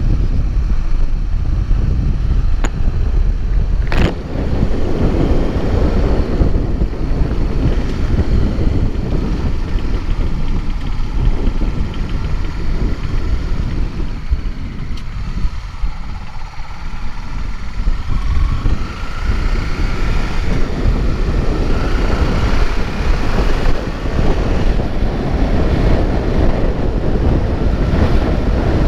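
Heavy wind rushing over the microphone while moving along a road, with a low vehicle rumble underneath.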